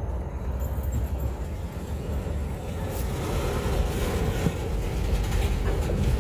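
Freight cars rolling past over a grade crossing: a steady low rumble of wheels on rail that grows slowly louder, with a few faint clicks.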